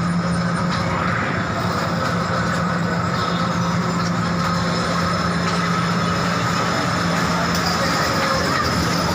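Steady running noise of a train in motion, with a low steady hum and a fainter high whine.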